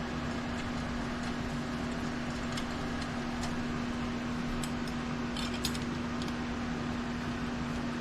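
Steady background hum with a few faint light clicks and ticks of small metal engine parts being handled.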